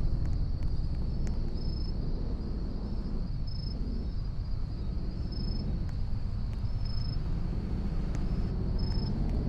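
Low rumble of a car engine running, easing off in the middle and building again near the end, under a steady high chirping of insects.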